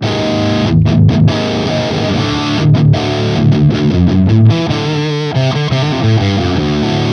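Electric guitar played through an overdriven tube-style amp: a distorted riff of chords and single notes. It has a few short stops early on and quicker note changes toward the middle.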